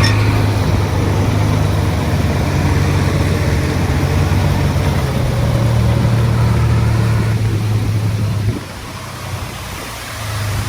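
Komatsu D20 bulldozer's diesel engine running steadily with a deep hum, dropping off sharply about eight and a half seconds in, then picking up again near the end.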